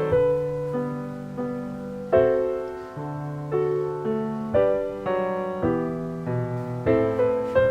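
Background piano music: gentle chords and melody notes struck and left to ring.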